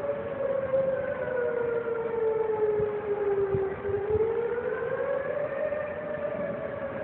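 Outdoor tornado warning siren wailing, its tone sliding slowly down over the first few seconds and then rising again, sounding the tornado warning.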